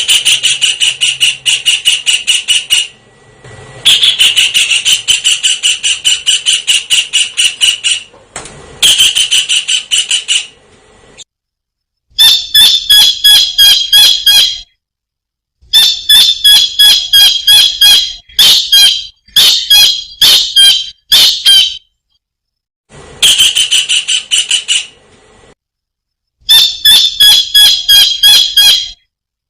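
Kingfisher (tengkek udang) calling in loud bouts of rapid, sharp high notes, several a second. Each bout lasts a few seconds and is followed by a short pause.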